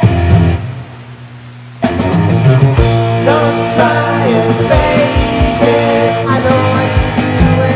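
Late-1970s rock band recording with guitars, bass guitar and drums. A chord is struck and left ringing. About two seconds in, the full band comes back in with drums and bass under a guitar playing bending notes.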